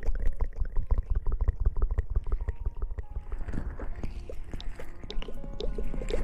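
Close-mic ASMR hair-washing sounds: dense wet crackling and squishing, with low thumps against the microphone.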